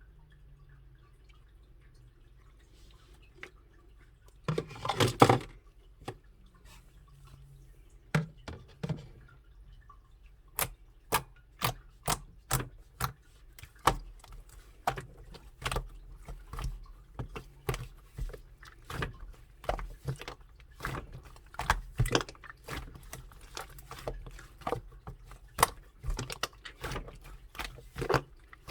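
Chocolate-milk slime being handled: a wet squish about five seconds in, then a long run of sharp sticky clicks and pops, about two a second.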